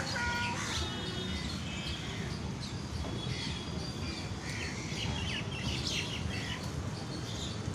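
Several birds chirping in scattered short calls, often overlapping, over a steady low background rumble.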